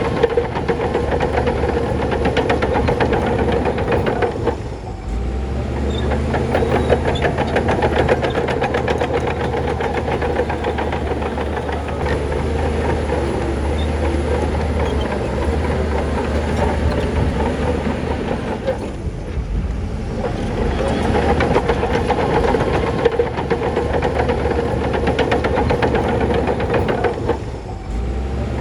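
Crawler bulldozer working: a diesel engine running under load over fast, continuous clanking of steel tracks, with the engine note shifting a few times.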